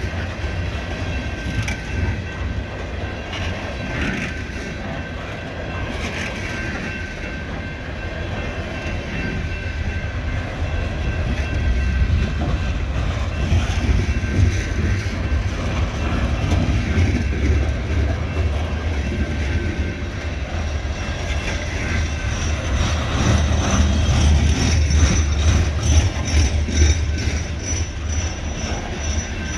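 Loaded CSX coal hopper cars rolling past: a steady deep rumble of steel wheels on rail, with clicks of the wheels over the rail joints. It swells in the middle and again near the end.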